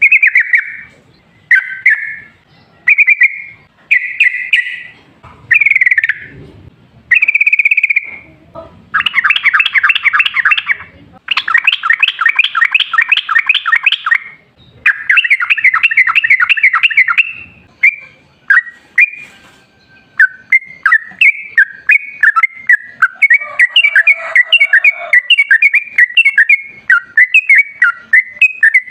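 Yellow-vented bulbul (trucukan) singing vigorously: short bubbling phrases about once a second, then from about nine seconds in three long rapid trills of a few seconds each, then a quick run of chirping notes.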